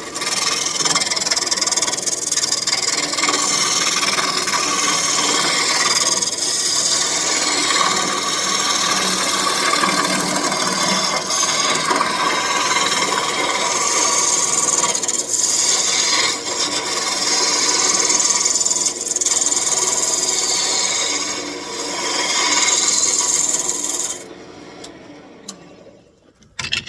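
Lathe tool cutting a spinning birch branch on a wood lathe, a steady rasping scrape as the piece is roughed round. Near the end the cutting stops abruptly and the sound falls away quickly.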